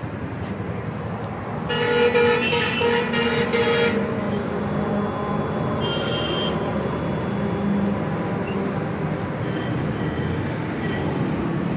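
A vehicle horn sounds for about two seconds, starting about two seconds in, over steady road traffic and engine noise. A short, higher beep follows a few seconds later.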